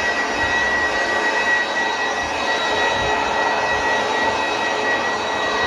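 A motor-driven machine running steadily: an even rushing noise with a constant high whine.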